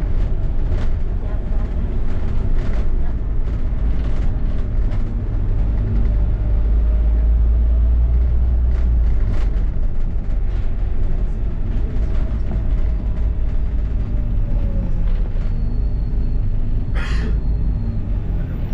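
London double-decker bus running in traffic, with a steady low rumble, scattered rattles and a faint whine that slides up and down in pitch. About two seconds before the end comes one short, loud noise.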